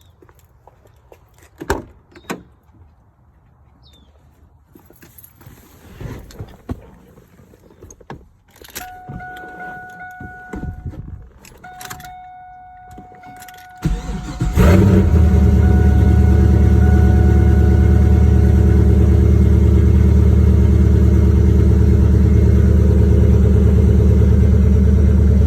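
2002 SLP Camaro being cold-started: after some clicks and knocks and a steady warning tone from the car, the starter cranks briefly about fourteen seconds in. The engine catches and settles into a loud, steady cold idle.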